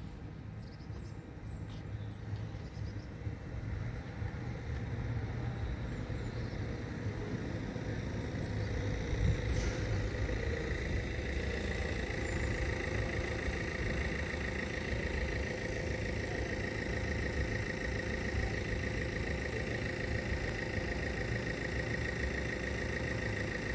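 Road vehicles idling in a queue, a steady low rumble that builds slightly over the first several seconds; a steady high-pitched tone joins about ten seconds in and holds.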